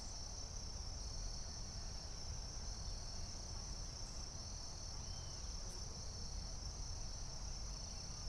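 Chorus of forest insects keeping up one steady, unbroken high-pitched trill, with a few faint short chirps and a low rumble underneath.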